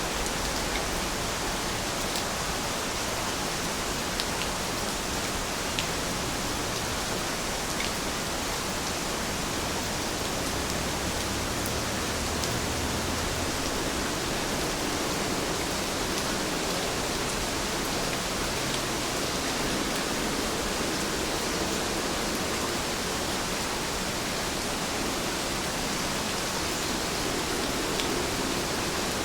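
Steady rain: an even hiss of falling rain with a few faint drop ticks.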